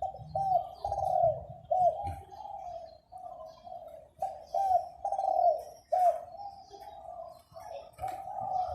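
Caged zebra dove cooing: quick runs of short, rolling coos in phrases with brief pauses between them. The owner calls its voice 'muan', a rolling voice quality prized in dove cooing contests.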